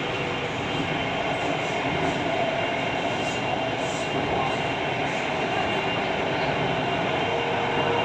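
Mumbai Metro train running between stations, heard from inside the car: a steady rumble and hiss of the train in motion, with faint steady whining tones.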